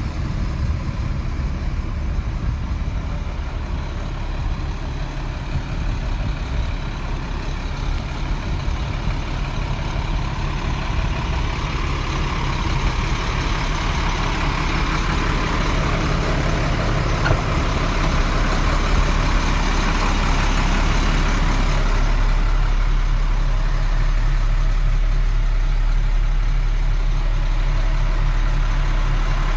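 2006 International 4400 truck's diesel engine running steadily. It gets somewhat louder through the middle and holds at a higher, steady level near the end.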